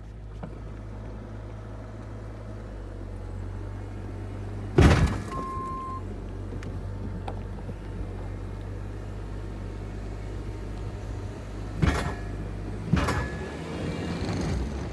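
Car engine idling steadily, with a loud door-like thump about five seconds in and two more near the end, and a short beep just after the first thump.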